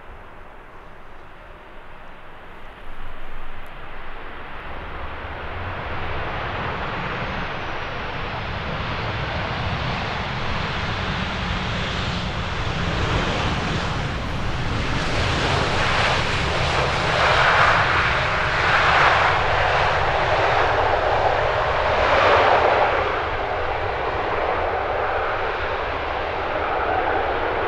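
Jet airliner's engines growing louder as it passes close by, loudest about two-thirds of the way through, then easing off slightly.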